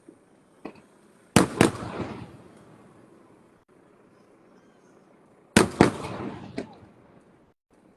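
Aerial firework shells bursting: two pairs of loud bangs about four seconds apart, each pair followed by about a second of fading crackle. A smaller pop comes shortly before the first pair and another shortly after the second.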